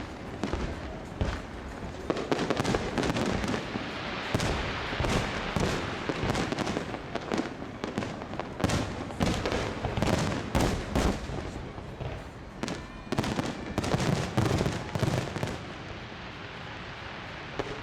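Fireworks display: a rapid barrage of bangs from aerial shells over continuous crackling, densest in the first half.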